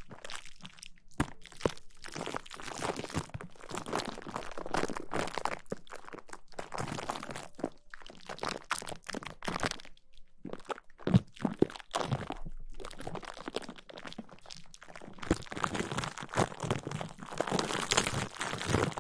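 Close-miked ASMR rustling: irregular crunchy, crinkling scratches right against the microphone, coming in uneven bursts with brief pauses and a few sharp clicks.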